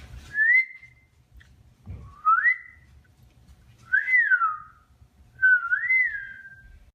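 Four short whistled notes, each a clean single tone that slides up, or up and back down, about every second and a half.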